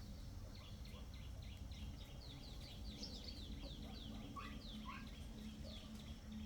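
Birds chirping in a quick run of short, falling notes, several a second, over a steady low hum.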